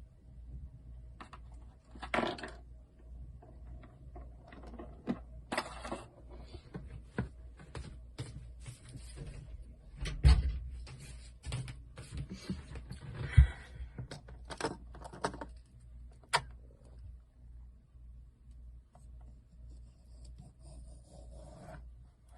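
Slime being squeezed and poked by hand: irregular sticky clicks, pops and squelches, busiest in the middle, over a low steady hum.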